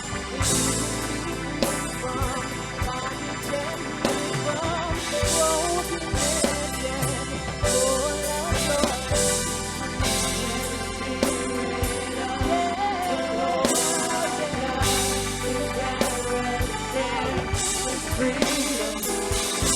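Live gospel worship music: a band with drum kit, bass and keyboard playing a steady beat while a voice sings a wavering melody over it.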